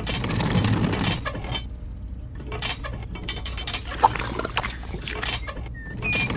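Clicking and clattering of a small mechanism, in short bursts broken by abrupt cuts.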